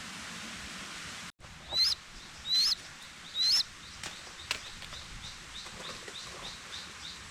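A steady hiss of forest background cuts off about a second in. Then a bird gives three loud, sharply upslurred calls about a second apart, followed by a run of quicker, fainter chirps at a similar pitch.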